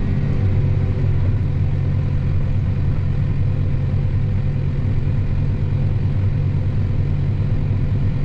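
Truck engine and road noise heard from inside the cab while driving, a steady low drone with no change.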